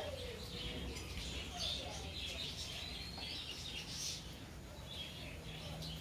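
Small birds chirping: a busy run of short, high chirps, with one rising whistled note about halfway through.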